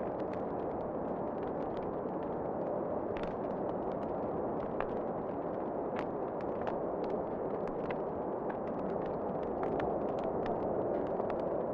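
Wood fire crackling in a fireplace, with frequent irregular sharp pops and snaps over a steady rushing noise of wind.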